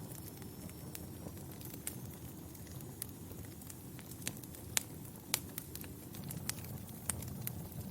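Fire crackling in a fireplace: a steady low rumble of flames under scattered sharp pops, two louder pops a little past halfway.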